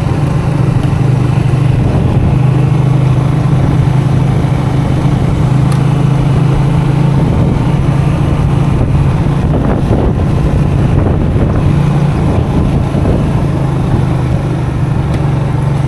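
Custom motorcycle engine running steadily at a constant low speed, its low hum holding nearly the same pitch throughout.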